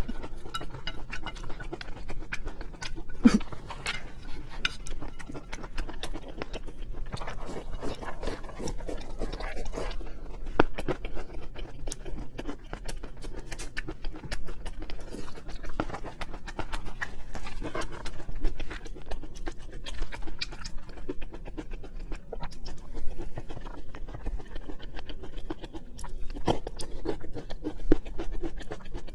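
Close-miked eating sounds of someone chewing seafood: a steady run of wet mouth clicks, smacks and chewing noises at an irregular pace.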